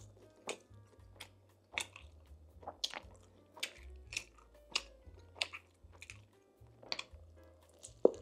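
Close-miked chewing of a mouthful of Philly cheesesteak pizza, with sharp mouth clicks and smacks about one or two times a second, the loudest near the end. Soft background music with a low bass line runs underneath.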